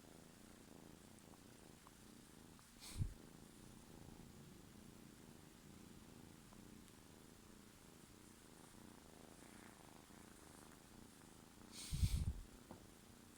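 Kitten purring steadily and softly, with two brief bumps or rustles close to the microphone, one about three seconds in and a longer one near the end.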